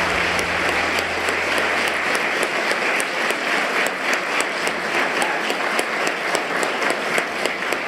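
Audience applauding with steady, dense clapping for an award recipient.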